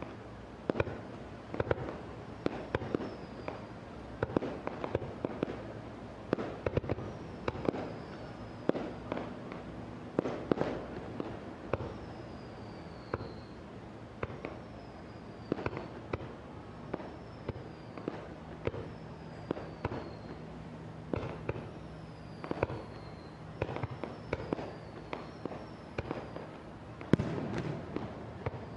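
Aerial fireworks going off in a continuous barrage, one to three sharp bangs a second, with short high whistles falling in pitch between them. A loud cluster of bursts comes near the end.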